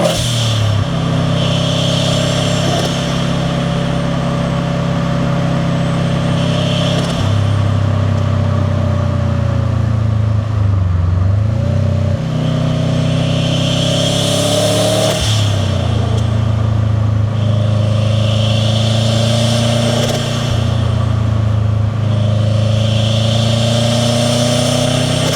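Turbocharged 2.0-litre flat-four boxer engine of a 2001 Subaru WRX STi, with a catless downpipe and titanium cat-back exhaust, heard on board while driving. The revs climb and drop several times, with a rise in hiss from the intake and turbo on each pull.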